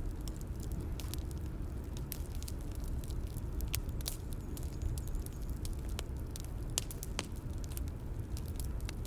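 Bonfire crackling: irregular sharp pops and snaps over a steady low rumble of burning.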